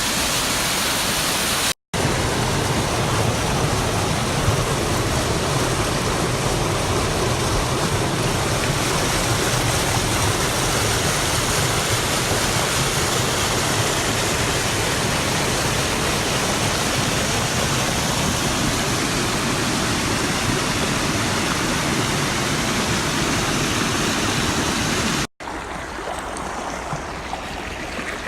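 Steady rush of running water, full and even. It breaks off for an instant twice, and after the second break, near the end, the flow is a little quieter.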